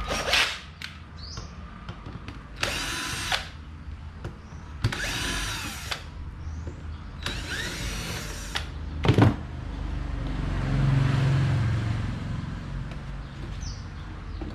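A power drill or electric screwdriver runs in three short bursts of about a second each, its motor pitch sliding up and down. A sharp knock follows.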